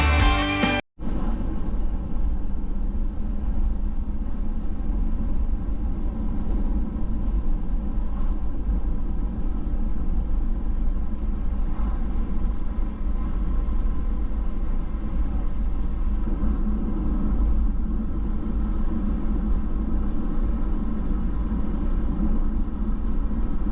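A car driving at a steady speed: a constant low engine and road rumble with no change in pace.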